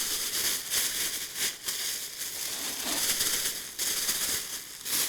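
Plastic packaging rustling and crinkling as it is handled, a continuous dense crackle that pauses briefly a few times.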